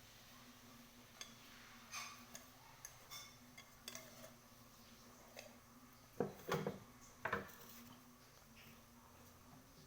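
Light clinks and taps on a small metal cooking pot being worked on for repair, then a few louder knocks about six to seven and a half seconds in.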